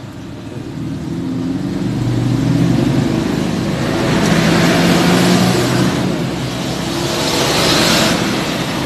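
Motor vehicle engine passing by, swelling in loudness twice and easing off, its pitch drifting as it goes.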